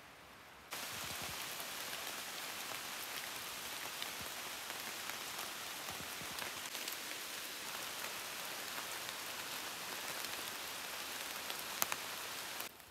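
Light rain falling on forest leaves: a steady hiss with many individual drops ticking, starting abruptly about a second in and cutting off just before the end.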